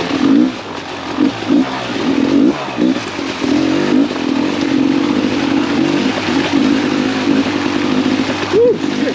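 2017 Beta 300RR two-stroke dirt bike engine being ridden, its revs rising and falling unevenly with the throttle, with a quick rev up and back down near the end.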